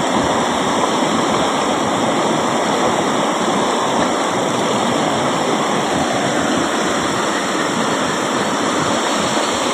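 Waterfall water rushing and splashing in a steady, loud roar.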